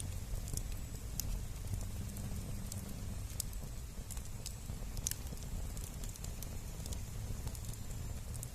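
Wood bonfire burning, crackling with irregular sharp pops over a low steady rumble.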